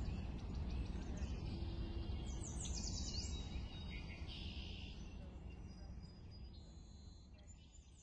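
Birds singing, with short chirps and quick sweeping trills, over a low steady outdoor rumble; the whole sound fades out gradually.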